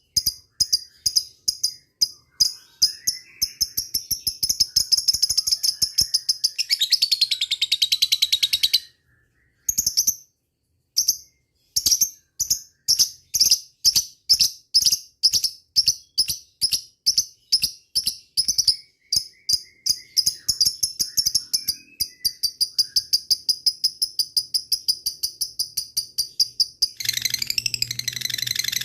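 Lovebird calling in rapid, high, sharp chirps, a few a second, that speed up into a continuous chattering trill (the "ngekek" call) several times, with a brief pause about nine seconds in.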